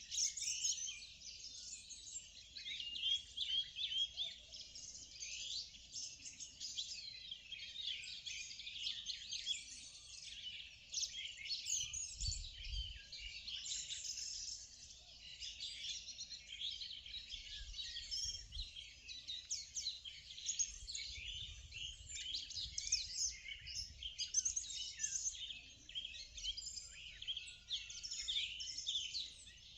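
Morning chorus of many songbirds chirping and trilling together, dense and overlapping without a break.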